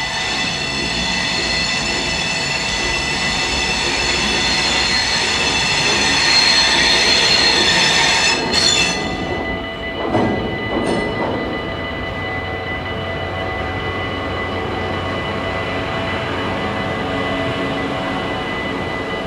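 A train passing over a level crossing, its wheels squealing with high ringing tones that cut off sharply about eight and a half seconds in. A lower tone then swoops down and back up. The crossing's warning bells keep sounding throughout.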